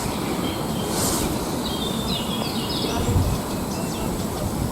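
Steady rumbling background noise with a quick run of high chirps, bird-like, about two seconds in.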